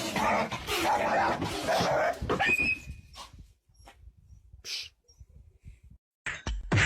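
An animal crying out with noisy, pitch-bending calls for about the first three seconds, then mostly quiet with a few faint clicks.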